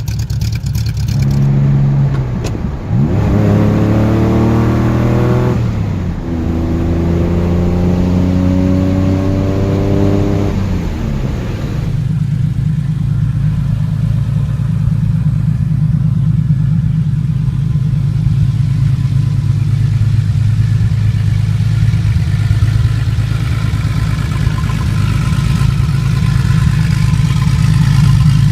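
Car engine revved several times, its pitch climbing and dropping in repeated blips over the first ten seconds or so, then settling to a steady idle.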